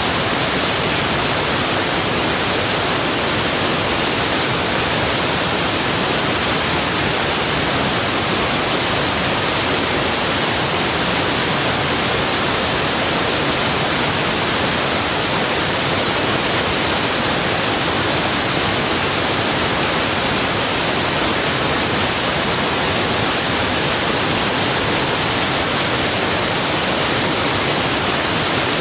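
Rushing water: a steady, unbroken hiss of falling or flowing water, even and strongest in the high end, with no separate splashes or other sounds standing out.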